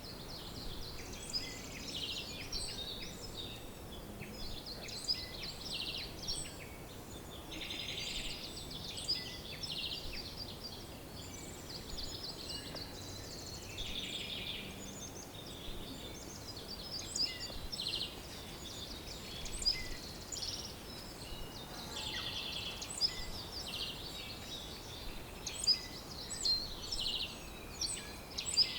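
Several songbirds singing and calling at once, a busy dawn-chorus-like mix of chirps, trills and whistles over a faint steady background hiss.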